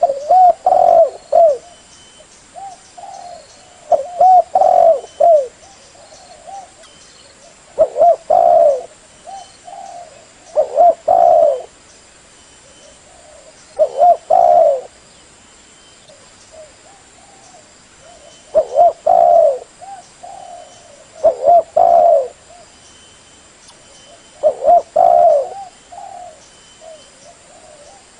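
Spotted dove (tekukur) cooing: a phrase of several low, curved coo notes repeated about every three seconds. This is the call used to lure other spotted doves.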